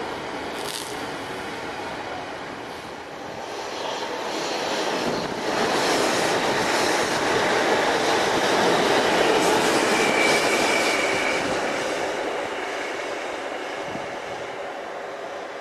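Freight wagons rolling steadily past on the rails, then, about three seconds in, a South West Trains electric multiple unit passing close beneath. Its wheel and rail noise swells to the loudest part midway, with a brief high squeal, and fades as the train draws away.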